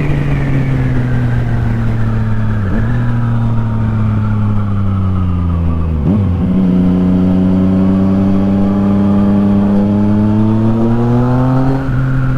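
Yamaha MT-09's inline three-cylinder engine through an Akrapovic exhaust, heard while riding: its note falls as the bike slows, breaks at gear changes about 3 and 6 seconds in, then climbs steadily under acceleration until another shift near the end.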